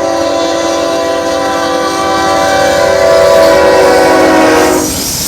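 Locomotive air horn sounding a long, loud chord blast that breaks off near the end, then starts again.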